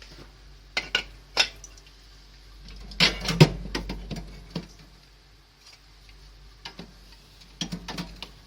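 Aluminium soft-drink cans being set into a small fridge one after another, clinking and knocking against each other and the fridge. The knocks come in short clusters about a second in, around three seconds in and near the end, over a low steady hum.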